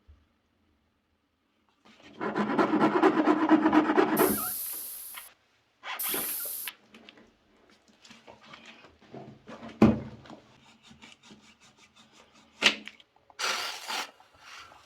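Tire plug kit's rasp tool scraping in and out of a tread puncture in quick, rough strokes, followed by a few short sharp hisses, scattered scrapes and a single knock.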